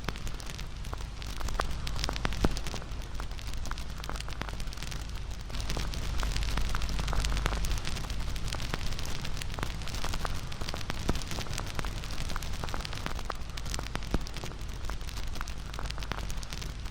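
Wood fire burning with a steady rush and frequent crackling and popping, with two louder pops, one about two and a half seconds in and one near fourteen seconds.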